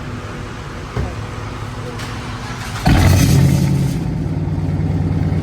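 Dodge Charger with a newly fitted Hellcat exhaust starting up about three seconds in: a loud flare of revs that settles into a deep, steady idle. Before the start there is a steady low rumble and a single knock about a second in.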